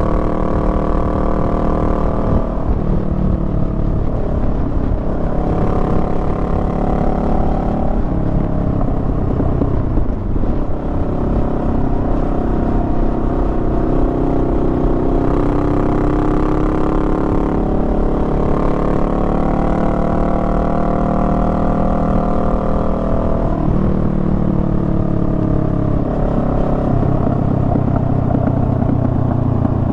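Honda Rebel 500's parallel-twin engine running while ridden. Its pitch rises and falls several times with throttle and gear changes, with a brief dip about ten seconds in.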